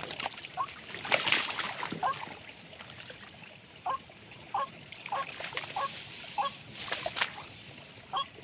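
Short nasal honking bird calls repeated about twice a second, mostly from about four seconds in, with bursts of rustling and splashing near the start and again about seven seconds in.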